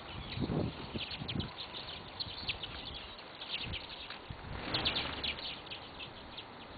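Small birds chirping close by: many short, high chirps in quick succession, thickest about five seconds in. A few dull low thumps sound under the chirping.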